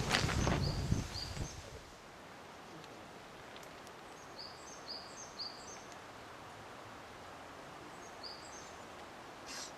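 A songbird singing three short phrases of quick, repeated high notes over faint outdoor hiss. A loud low rushing noise fades out over the first second and a half, and a brief hiss comes near the end.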